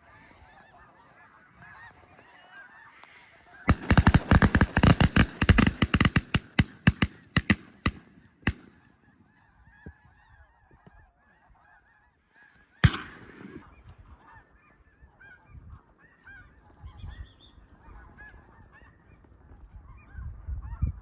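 Snow geese honking in a busy chorus, with a rapid volley of many shotgun shots from several guns starting about four seconds in and lasting about five seconds, then one more single shot a few seconds later.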